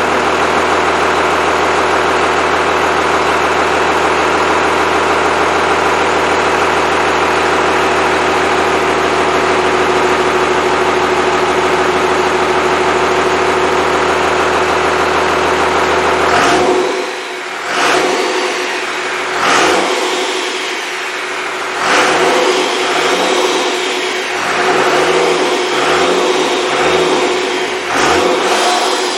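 Freshly rebuilt Cummins 5.9L 12-valve inline-six turbodiesel running steadily at a raised speed. About sixteen seconds in the sound changes, and the engine revs up and falls back several times in quick succession.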